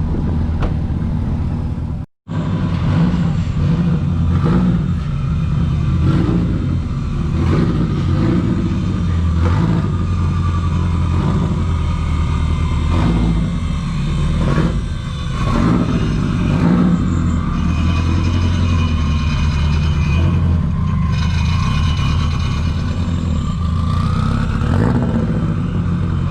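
Car engine running while driving, a steady low exhaust rumble with some revving. The sound cuts out for a split second about two seconds in.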